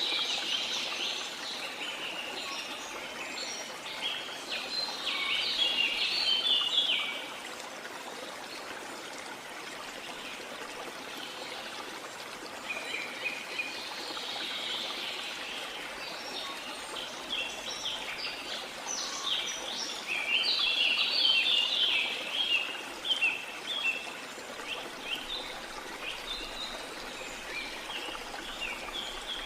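Steady wash of sea water with small birds chirping in quick, high bouts: one near the start, one midway, and a longer, busier one through the second half.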